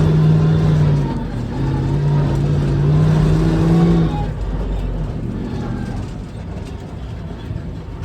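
Monster truck engine running under heavy throttle in two long stretches with a short dip between, then easing off about four seconds in and running lower and quieter.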